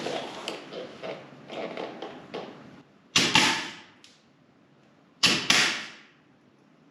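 Air-powered grease gun pumping grease into a tractor's grease fittings: two sharp bursts of air hiss, each a quick double pulse, about three and five seconds in. Before them come scattered clicks and rustling as the gun is handled.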